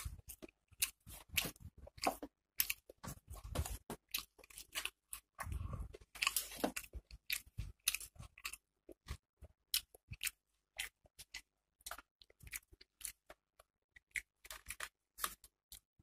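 Close-miked eating sounds of a person chewing mouthfuls of rice and curry: many short, sharp, wet clicks, busy in the first half and thinning out toward the end.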